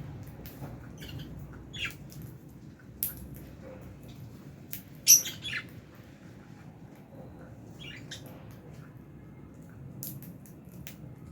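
Lovebirds giving short, sharp chirps and squawks at irregular intervals, with the loudest burst of calls about five seconds in, over a low steady hum.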